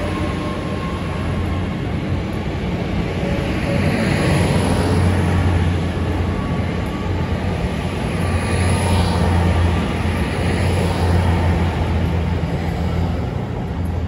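Great Western Railway Hitachi Intercity Express Train running past the platform and moving away, with a steady low drone from its underfloor diesel engines over the rumble of wheels on rail. The sound swells and eases slightly as the carriages pass, then starts to fall near the end as the rear cab goes by.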